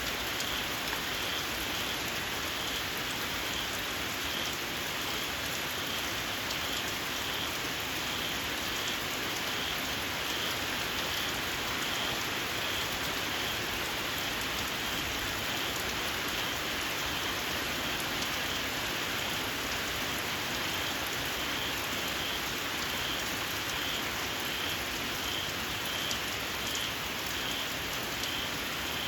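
Steady rain falling, with a small frog's high-pitched call repeated at a steady rhythm.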